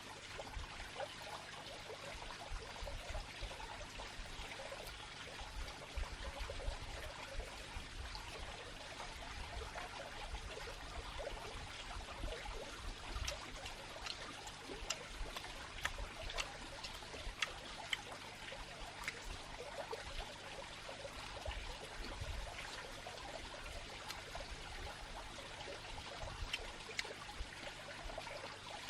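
Steady trickling of running water, with scattered faint clicks and a low uneven rumble underneath.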